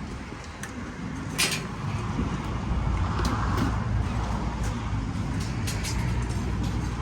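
A motor vehicle's engine running close by, its low rumble growing louder about two seconds in, with a few scattered clicks and clatter.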